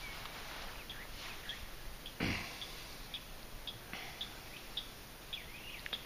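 Small birds chirping faintly at intervals: short high notes and a few brief gliding calls, over a quiet outdoor background. A single short thump a little over two seconds in is the loudest sound.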